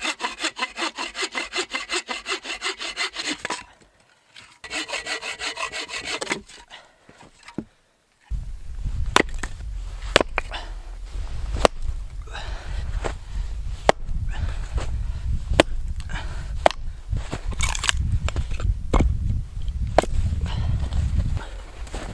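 Hand saw cutting through wood in quick, even strokes, in two bouts. Then a low rumbling noise with scattered sharp cracks, typical of firewood being handled and broken.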